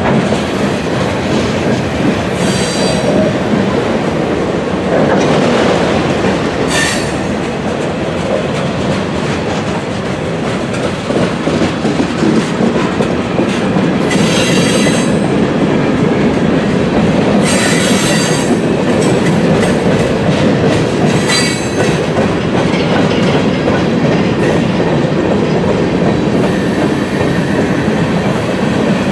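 Freight train rolling steadily past at trackside, its wheels clattering over the rail joints. About five short, high-pitched wheel squeals break through along the way.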